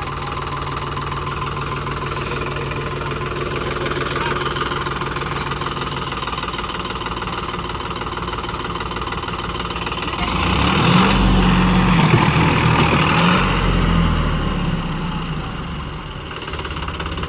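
Sonalika DI 734 tractor's diesel engine running steadily, then revved harder for about five seconds past the middle, the pitch rising and falling, as the stuck tractor strains to pull free.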